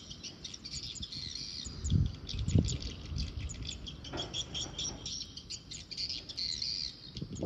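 Birds twittering in rapid, repeated high chirps. A couple of low thumps come about two seconds in, and a brief rustle a little after four seconds.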